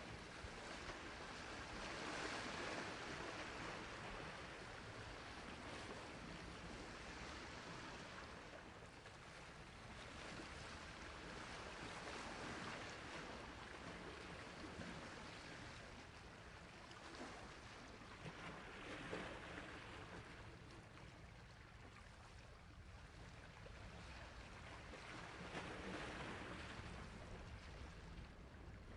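Sea waves washing onto a shore, the surf swelling and receding in slow surges every several seconds.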